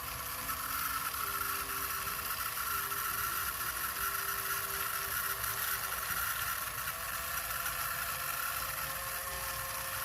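A small electric motor runs steadily with an even whir and hiss, as on a miniature DIY machine; it is switched on with a click just before.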